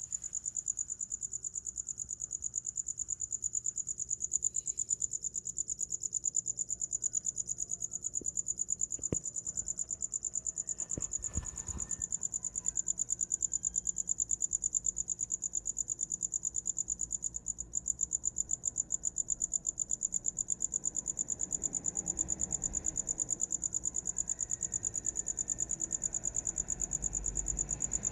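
A cricket chirping without a break: one high, very fast trill that holds steady throughout.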